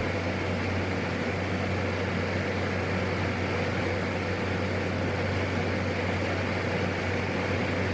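Steady drone and hiss of a PAC 750XL turboprop's cabin noise, carried over the aircraft's intercom audio feed, with a constant low hum underneath.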